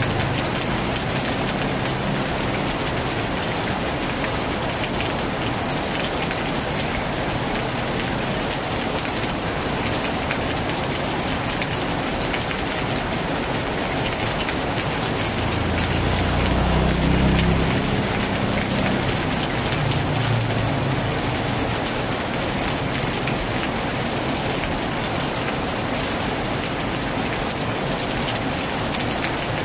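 Heavy rain falling steadily, a dense even hiss. A low rumble swells for a couple of seconds about sixteen seconds in, with a fainter one a few seconds later.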